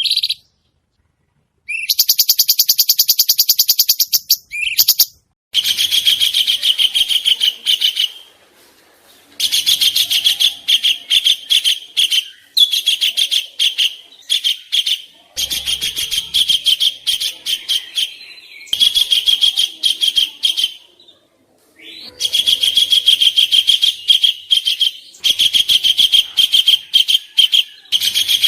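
Songbird song of the harsh 'kasaran' fill-in type used in masteran tutor recordings for competition birds: very fast, high chattering trills in repeated bursts of a few seconds, with short gaps and abrupt starts and stops.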